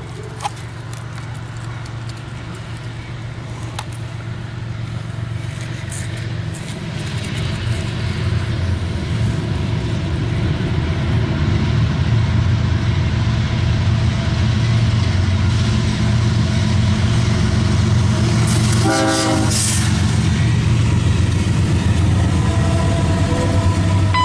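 Diesel locomotives of a CSX freight train approaching and running past, a low engine drone that grows louder over the first half and then holds steady. A brief higher-pitched burst comes near the end.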